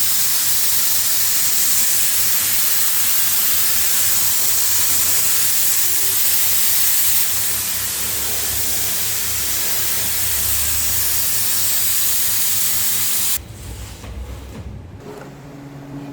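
High-pressure spray hissing steadily, with a machine's low, pulsing hum underneath; it cuts off suddenly about 13 seconds in, leaving a quieter hum.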